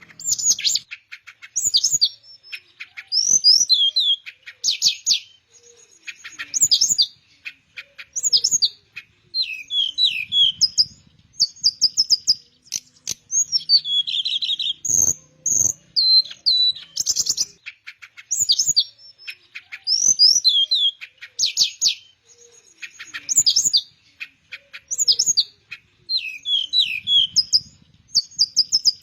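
Teledekan melayu, a flycatcher, singing: quick, varied whistled phrases and rapid trills, high-pitched, coming every second or two with short pauses between them.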